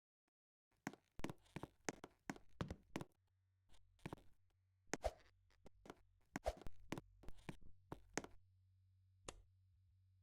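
Irregular knocks and taps, a couple of dozen over several seconds, over a faint low steady hum that comes in about a second in.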